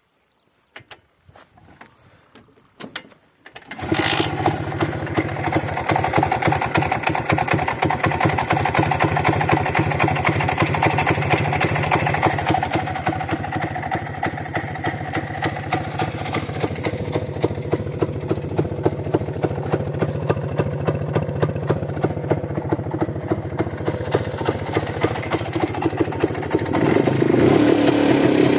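Single-cylinder two-stroke engine of a Muravei cargo scooter catching about four seconds in after a few clicks, then running steadily with an even firing beat, and revved up near the end with a rising pitch.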